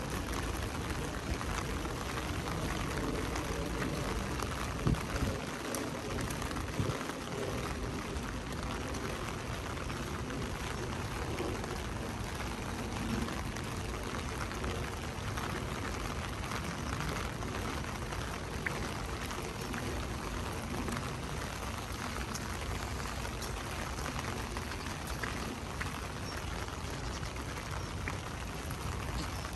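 Steady rain falling, an even hiss throughout, with a few short knocks standing out.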